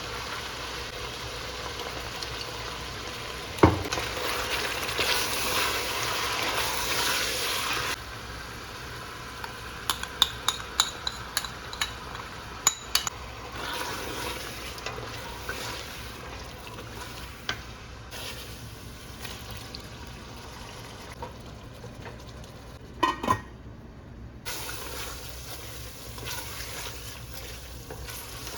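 Home-cooking sounds: food sizzling in a pan, with a sharp knock a few seconds in. Then comes a quieter stretch with a quick run of light clinks of a utensil stirring against cookware, and a couple of knocks later on.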